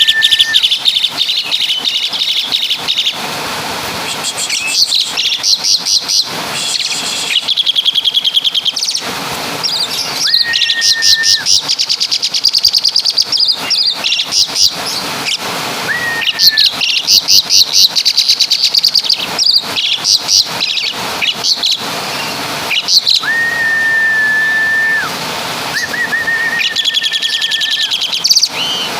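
Javan pied starling (jalak suren) singing loudly: rapid, repeated high chattering phrases broken by several long, level whistled notes, a few of them held for a second or two.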